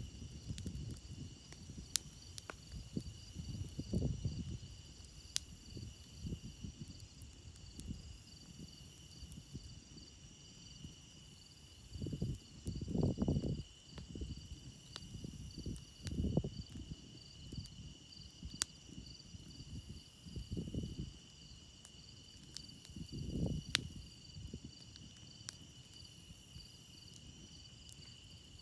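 Crickets chirring steadily over a campfire, with a few sharp pops and crackles from the burning wood. Several short, low surges of sound rise and fall through it, the loudest about halfway through.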